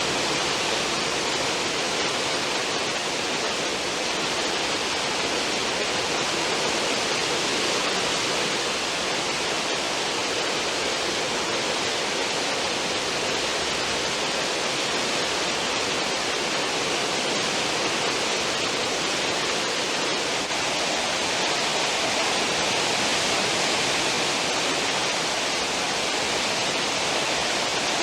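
Cruise ship's stern wake: a steady rush of churning, foaming water with no breaks or distinct splashes.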